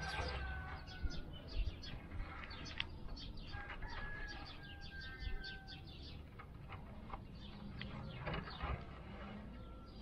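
Birds chirping and calling: many quick short chirps, with a few longer whistled notes.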